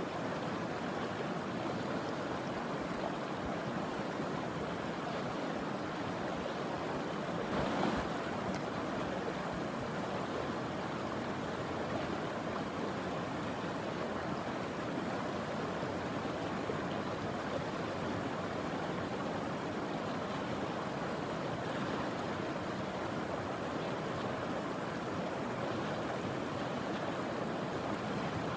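Shallow mountain river rushing steadily over rocks, with a brief louder bump about eight seconds in.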